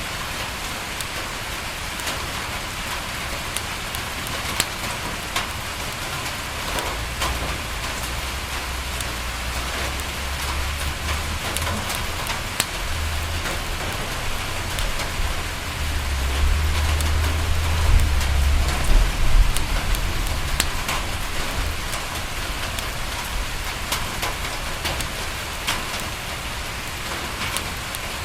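Steady rain pattering on a window, with scattered sharp ticks throughout. A low rumble builds about a quarter of the way in, is loudest around two-thirds through, then fades.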